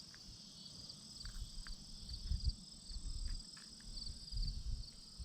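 Insects chirring steadily in a high, pulsing drone, with irregular low rumbles and thumps on the microphone.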